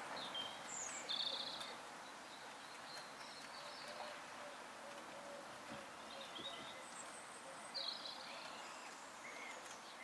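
Short, high-pitched squeaks from the camera itself, coming in scattered clusters over a steady faint hiss; the rabbits are not making them.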